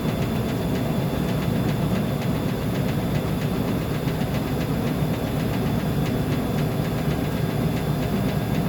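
Uni-Mac UniMat 35 commercial washing machine running: a steady mechanical rumble with a thin, steady high tone over it.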